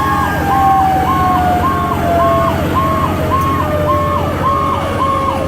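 Fire truck sirens: an electronic siren cycling quickly, a little under two sweeps a second, over a mechanical Federal Q siren whose wail slowly falls in pitch as it winds down. The truck's engine hums underneath.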